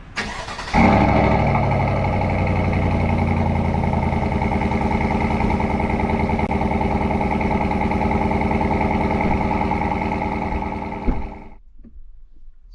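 Chevy 5.3L V8 with a Corsa Sport cat-back exhaust cold-starting, heard inside the cab: brief cranking, then a loud flare as it catches under a second in, settling into a steady idle. The sound stops suddenly near the end.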